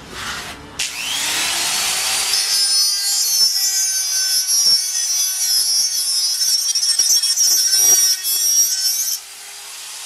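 A small power tool spins up with a rising whine about a second in, then runs steadily, cutting or sanding material with a loud high-pitched sound, for about eight seconds before easing off to a quieter run near the end.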